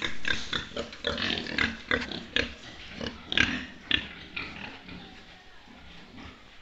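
Pigs grunting: a quick run of short grunts, several a second, that thins out and fades over the last couple of seconds.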